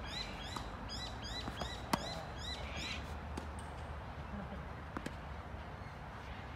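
A bird calling in a fast run of short, high, rising-and-falling chirps, about three a second, that stops about three seconds in and starts again near the end, over steady outdoor background noise. Two sharp knocks stand out, about two and five seconds in.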